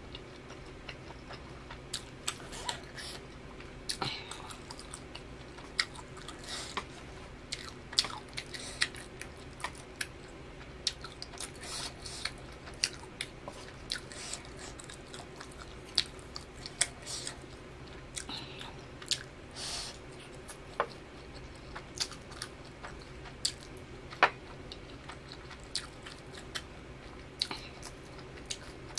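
A person chewing and biting mouthfuls of spicy instant noodles, with many short, wet mouth clicks and smacks at an irregular pace.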